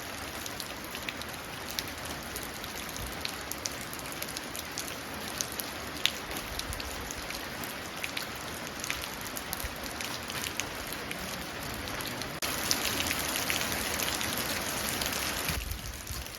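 Steady rain falling into a puddle, with many individual drops ticking and splashing. About twelve seconds in it turns abruptly louder and brighter, then changes again abruptly near the end.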